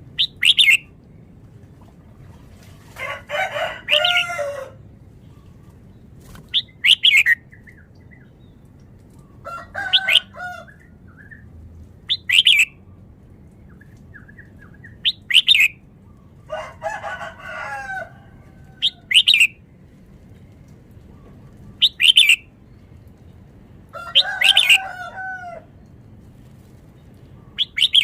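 Red-whiskered bulbul singing: short, sharp high notes every two to three seconds, broken four times by longer, lower warbled phrases.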